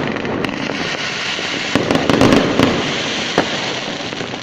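Fireworks bursting in the air: a quick cluster of sharp bangs about two seconds in, then a single crack a little over a second later, over continuous noise between the bangs.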